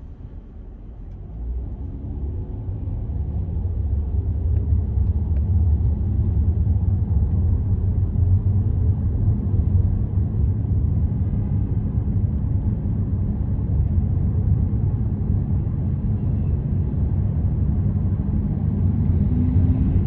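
Car driving on city streets: a steady low road and engine rumble that builds over the first few seconds.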